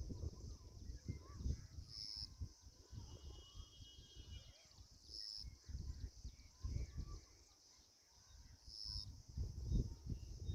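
Quiet outdoor ambience: irregular low gusts of wind buffeting the microphone, a faint high hiss that swells briefly every few seconds, and scattered faint chirps.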